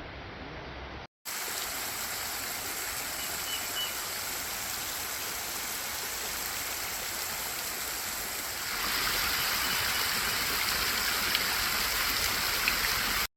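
Running water rushing steadily, growing louder about nine seconds in.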